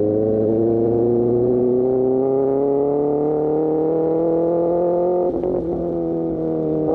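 Sportbike engine through an Austin Racing GP1R aftermarket exhaust, pulling in gear with its pitch rising slowly. About five seconds in, the note breaks briefly and dips, as at a gear change, then runs on steadily.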